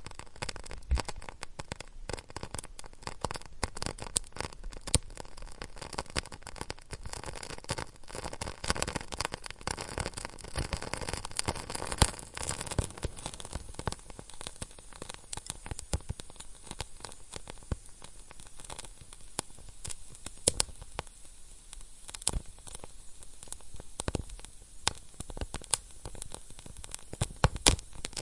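Wood fire crackling in a fireplace, with irregular sharp pops and snaps over a soft hiss of flames.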